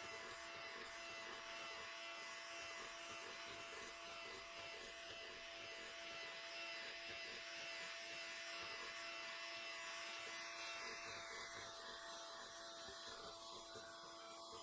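Faint steady electric hum and buzz of a small motor, its higher hiss thinning out near the end.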